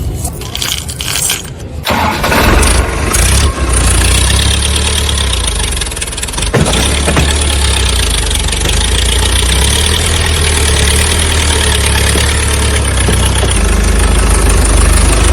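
Tractor engine running loud and steady with a heavy low rumble, coming in abruptly about two seconds in after a moment of scattered, uneven noise.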